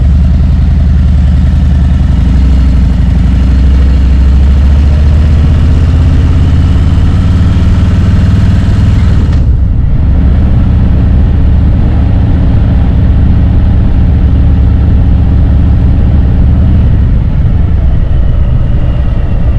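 Harley-Davidson Road Glide's V-twin engine running on the road. Its pitch climbs for several seconds, breaks briefly about halfway through, then runs steadily and eases off near the end.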